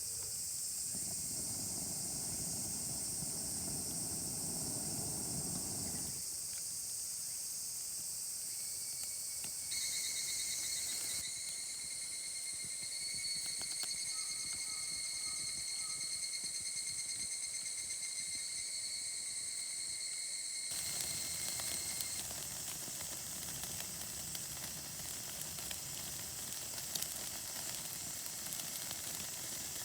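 Insects trilling in a steady, high-pitched chorus, with one steady pitched trill standing out through the middle; the background changes abruptly several times.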